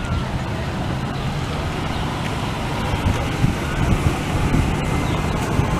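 Wind buffeting the microphone: a steady low rumble over a wash of outdoor background noise.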